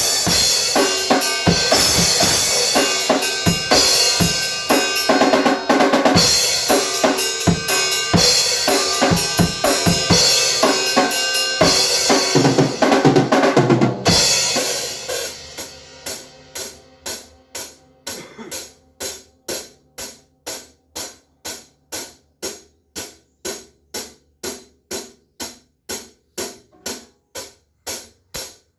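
Music driven by a drum kit, with snare, bass drum and cymbals under a dense full-band texture. About halfway through it drops to a quieter, steady pulse of short hits, about two a second.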